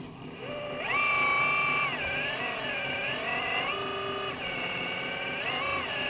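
Electric motor whine from a radio-controlled construction model, rising and falling in pitch as it is driven. The pitch steps up about a second in, drops back around two seconds, and rises again around four seconds and briefly near the end.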